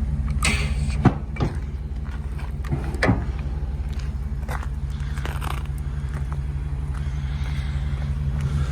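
Ford E350 box truck's engine idling steadily, with a couple of light knocks about one and three seconds in.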